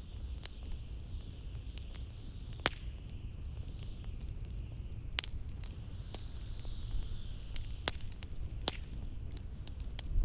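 Wood fire crackling, with scattered sharp pops, over a steady low rumble. Blizzard wind howling behind it in a high hiss that swells and fades.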